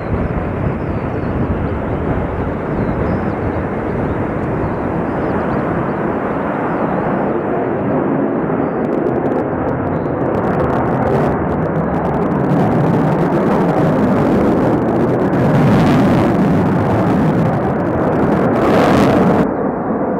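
Fighter jet engines during an airshow pass: a loud, steady rushing noise that slowly builds and swells twice, once about three-quarters of the way in and again near the end.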